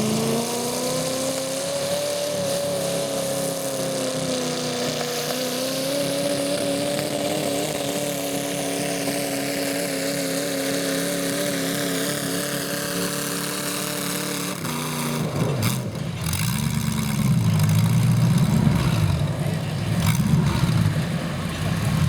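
Garden tractor engine working hard during a pull, its pitch rising at the start and holding steady for about fourteen seconds. It then drops off to a lower, rougher running sound with a few knocks.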